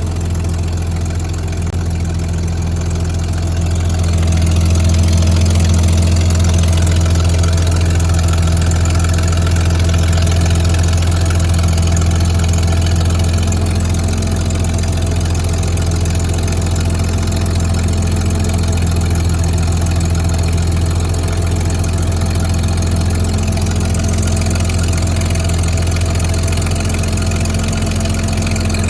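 1958 Rolls-Royce B60 straight-six petrol engine idling smoothly and steadily, its level rising slightly about four seconds in.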